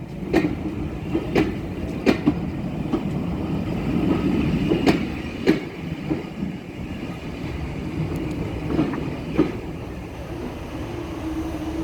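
Charter train moving slowly over the level crossing: a steady low rumble with a series of sharp, irregular clicks and knocks as the wheels pass over rail joints, and a steady low tone that comes in near the end.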